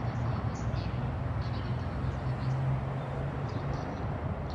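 JR East Keiyo Line electric commuter train running away into the distance, a steady low rumble that swells slightly partway through.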